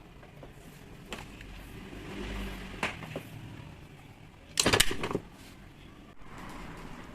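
Parts and tools being handled on a workbench during disassembly: a few separate clicks, then a short loud rattle of knocks a little past the middle.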